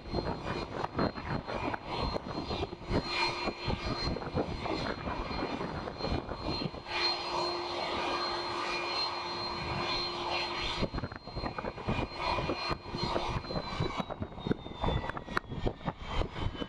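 Jet airliner engines whining steadily at low power, buffeted by gusty wind on the microphone; near the end one whine tone starts to fall slowly in pitch.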